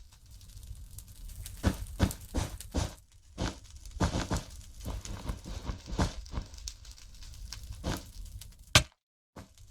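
Irregular sharp taps and clicks, a dozen or so, over a low background hum. The loudest click comes near the end, just before the sound cuts out completely for a moment.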